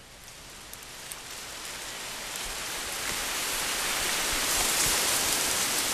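A steady rushing hiss of noise with a few faint ticks, swelling gradually louder.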